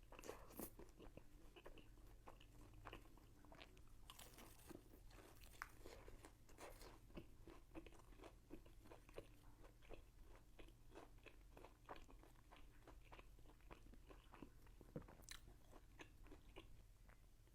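Faint, close-up eating sounds: a person biting and chewing crunchy food, with a steady run of small crisp crunches and wet clicks.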